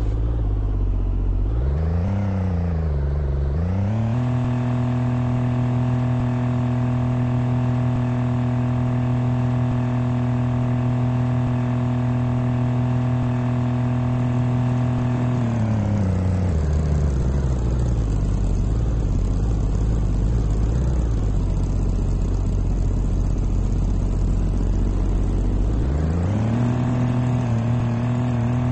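A car engine running at a steady pitch for about ten seconds, then dropping to a low rumble and picking up again near the end, as when driving at speed, slowing and accelerating.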